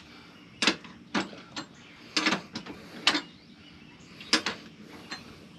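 Sharp clicks and knocks at irregular intervals, about eight in all, from the bolts of a smoker's foot stands being tightened by hand.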